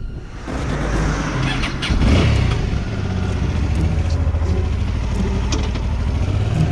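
Motorcycle engine starting about two seconds in, then running steadily, with a few light clicks.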